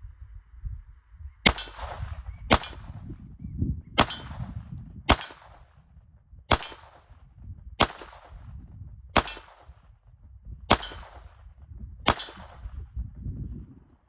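GSG .22 LR gun fired nine times in a slow, steady string, one sharp crack every second or so. A low rumble runs between the shots.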